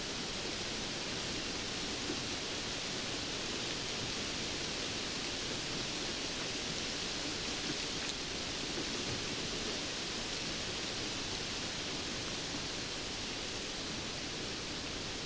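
Steady rain falling, an even hiss with a few faint drop ticks and no rises or lulls.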